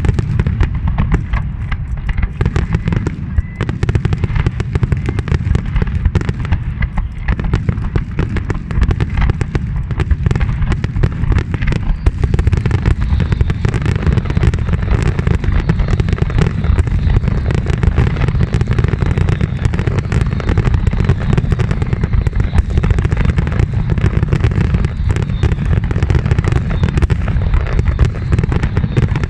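Fireworks display: a dense, unbroken barrage of bursts and bangs with a heavy low rumble beneath.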